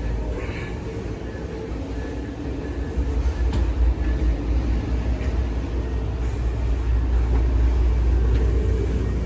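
Rumble of a moving Amtrak passenger train heard from inside the car: a steady low rumble that grows louder about three seconds in, with a few light clicks and rattles.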